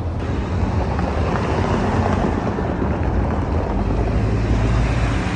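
City street traffic: a motor vehicle rumbling past close by, a steady rush of noise over a low rumble.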